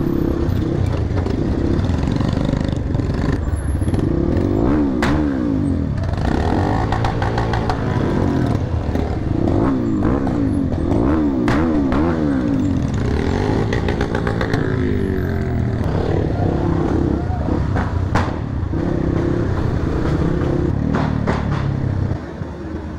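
Motorcycle engines running on a group ride, the pitch rising and falling again and again as the throttle is worked, over a steady low rumble. A few sharp cracks stand out, and the sound drops in level shortly before the end.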